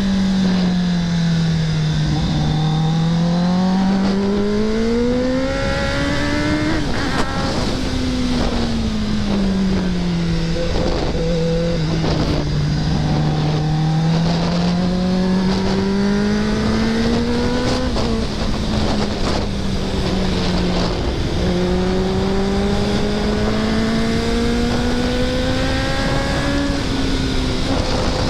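2024 Kawasaki ZX-10R's inline-four engine running hard, its pitch falling and rising in long sweeps every few seconds as the throttle is rolled off and back on, over a steady rush of wind on the microphone.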